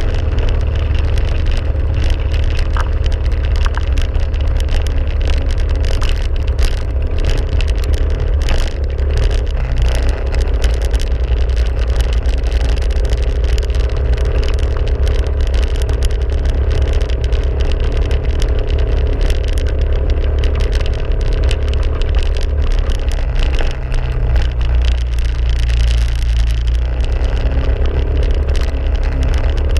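A motor engine running steadily, with a deep continuous rumble and a steady hum over it.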